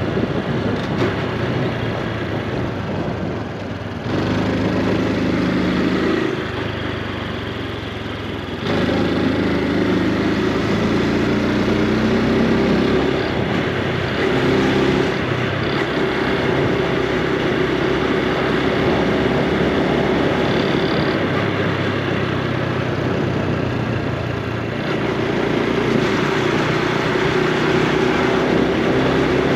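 Honda Super Cub C125's air-cooled 125 cc single-cylinder four-stroke engine and exhaust while riding, the engine note shifting with throttle. It eases off around four seconds and again from about six to nine seconds, then picks up and runs steadily at a louder level.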